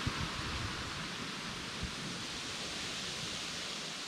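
Steady, even hiss of outdoor ambience, with a faint low thump just under two seconds in.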